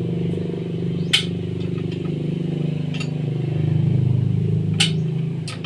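An engine running steadily at a low, even pitch, swelling slightly about four seconds in, with three short sharp clicks over it.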